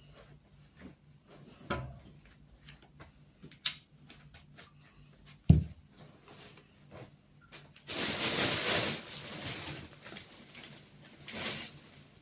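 Household cleaning noises: scattered light taps and knocks, one heavy thud about five and a half seconds in, then a second or so of rustling or brushing noise near the end, and a shorter burst of it just before the end.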